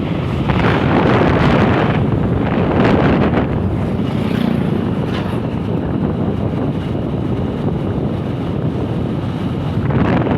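Wind buffeting the microphone: a steady, rumbling noise with brief gusts.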